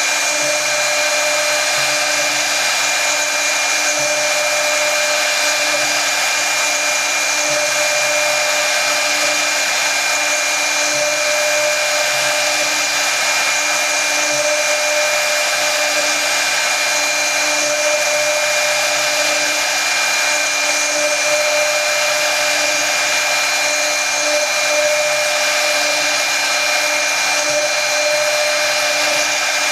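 Brushless spindle of a CNC router running steadily at high speed while machining wood: a constant whine over a loud airy hiss, with no change in pitch or level.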